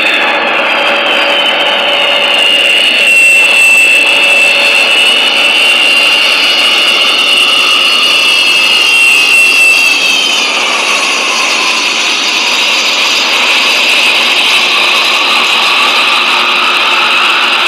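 The Antonov An-225's turbofan jet engines running loud, with a high whine over a rough rushing noise. The whine holds steady, then falls in pitch about ten seconds in.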